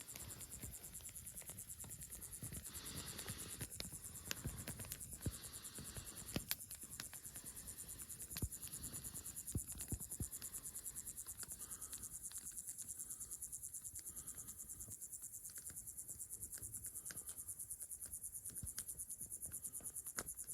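Crickets chirping in a steady, fast, even pulse, with scattered sharp clicks and taps.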